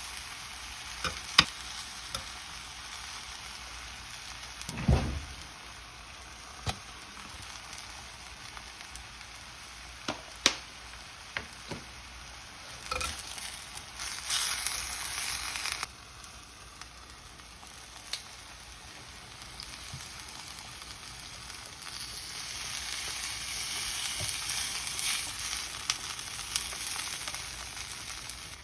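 Food sizzling in a hot frying pan as it is stirred, with sharp clicks of a utensil against the pan. A single low thump comes about five seconds in, and the sizzle briefly grows louder twice.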